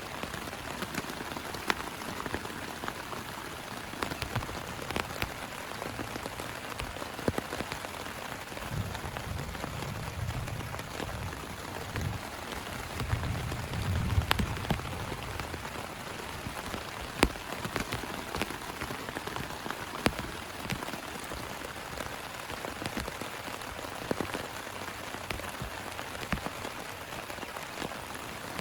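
Heavy rain falling steadily, with sharp individual drops tapping close by. A low rumble swells twice around the middle.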